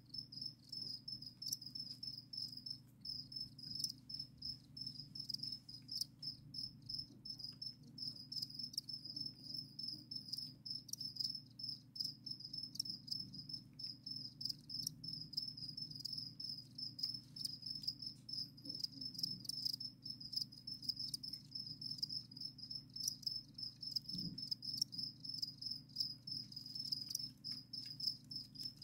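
Crickets chirping: a continuous high-pitched trill of rapid, even chirps, with scattered faint clicks and a low steady hum underneath.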